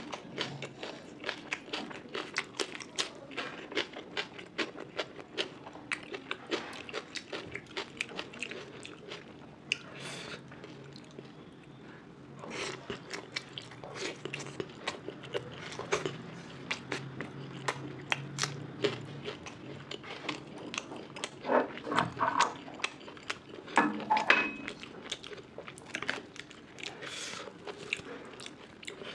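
Close-miked chewing and biting of food, with rapid wet mouth clicks and smacks and some crunching, several a second, a few louder smacks after about twenty seconds.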